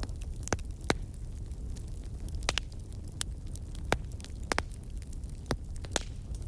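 Wood campfire crackling: about ten sharp, irregular pops and snaps over a steady low rumble of the flames.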